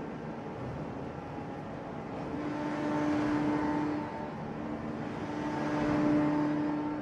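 Hydraulic forging press running: a steady machine hum that swells and fades in cycles of a few seconds, loudest about three and six seconds in.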